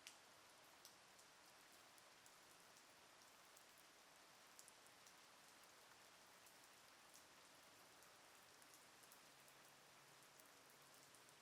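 Faint, steady rain, with scattered sharp ticks of individual drops striking a surface over an even hiss.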